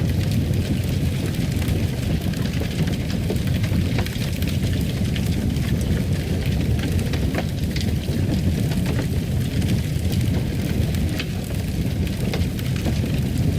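Wood fire crackling in a fireplace: a steady low rumble of burning with scattered sharp pops and crackles.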